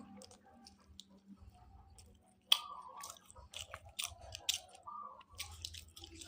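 Close-up chewing and wet mouth smacks of a person eating grouper fish, with a sharp click about two and a half seconds in and a run of clicks after it.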